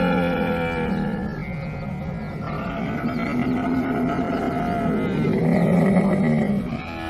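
Camel calling: long, low, rough calls that run one into the next, easing off near the end.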